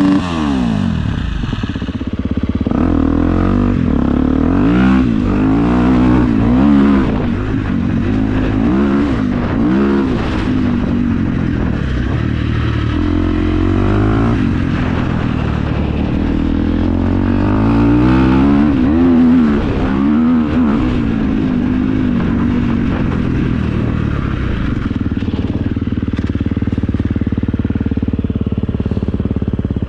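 KTM EXC 350's single-cylinder four-stroke engine with an Akrapovič exhaust, revved up and dropped back again and again, loud. Over roughly the last ten seconds it runs steadier at lower revs.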